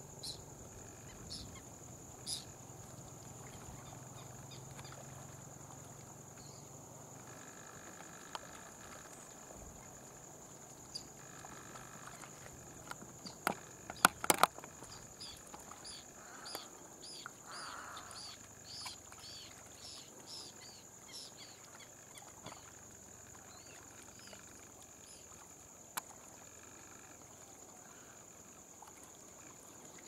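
Wetland ambience with a steady high hiss throughout and a quick run of short, high chirping bird calls in the middle. A few sharp knocks come just before the calls and are the loudest sounds.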